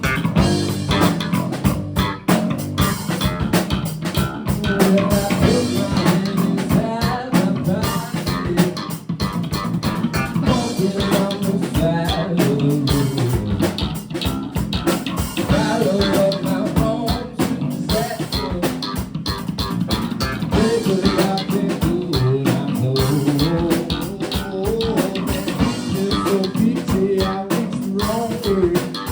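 Live rock band playing: electric guitar, bass guitar and drum kit, with what may be a sung vocal line over them.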